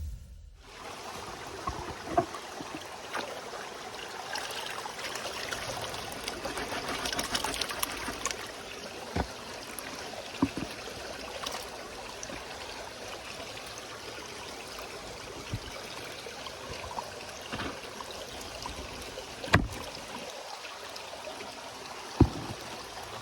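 Steady rush of flowing river water, broken by a few sharp knocks, the loudest of them about two-thirds of the way through and just before the end.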